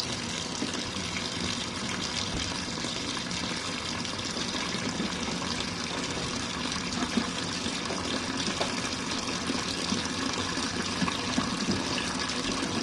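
Hot water running steadily from a sink faucet into an RV washing machine's tub as it fills.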